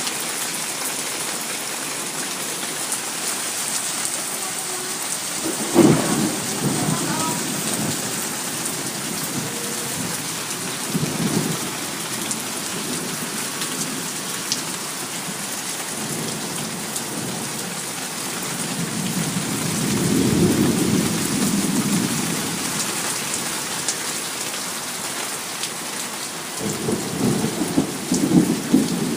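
Heavy rain falling steadily, with a sharp crack of thunder about six seconds in. Low rolling rumbles of thunder follow later, the longest swelling around twenty seconds in and another near the end.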